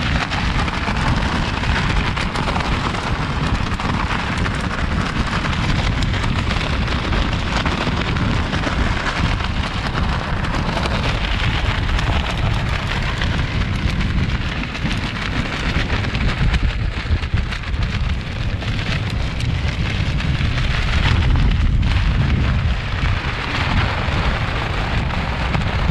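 Strong wind of about 25 to 30 mph buffeting the microphone: a loud, steady rush with a heavy low rumble, swelling a little louder a few seconds before the end.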